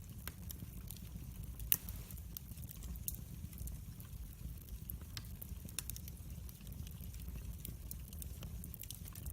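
Wood fire burning in a fireplace: a steady low rumble of the flames with scattered sharp crackles and pops, the loudest pop about two seconds in.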